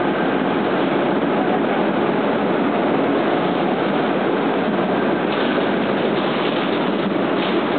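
Fukuoka City Subway Nanakuma Line 3000-series linear-motor train running at speed through the tunnel, heard from inside the car: a steady, loud wash of running noise from wheels, rails and tunnel air, with a few faint brief clicks in the second half.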